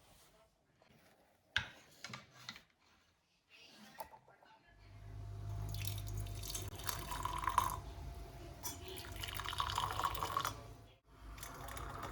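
A few light clicks, then water running from a kitchen tap into a sink, steady for several seconds, briefly stopping and starting again near the end.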